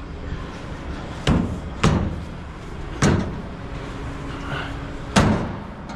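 Four sharp metallic knocks, with the last one the loudest, as a sheet-metal pickup bedside panel is worked onto the truck bed and bumps into place.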